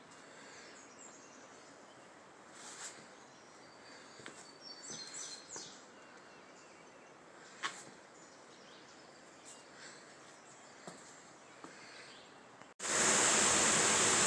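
Faint open-air ambience with scattered short bird chirps. Near the end it cuts suddenly to the loud, steady rush of a waterfall.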